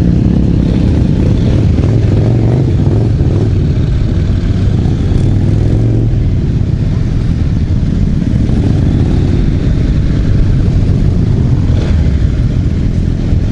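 Motorcycle running, with a steady, loud low rumble of wind on the microphone.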